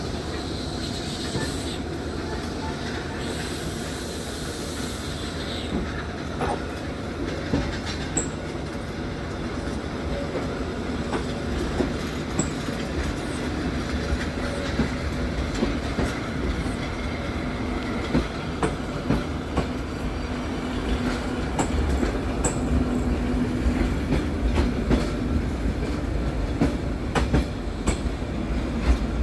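Passenger train running on rails, its wheels clicking over rail joints over a steady low rumble, growing louder and busier toward the end. A hiss carries through the first six seconds or so.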